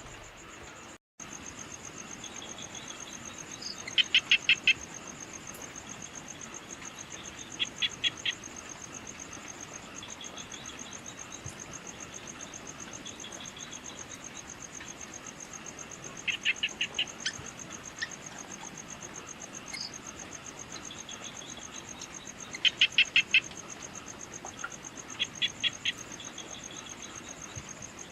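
Evening insect chorus: a steady, high, fast-pulsing cricket-like trill. Every few seconds it is cut across by a loud burst of five or six quick chirps, five bursts in all, after a brief dropout about a second in.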